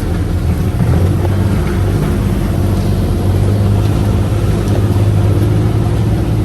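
UTV engine running steadily while the vehicle is driven, a constant low hum with a noisy rumble over it.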